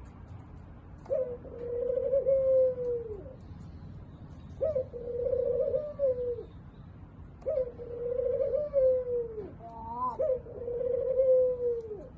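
Spotted dove (tekukur) cooing: four long, drawn-out coos about three seconds apart, each dropping away at its end, with a short rising call just before the last coo.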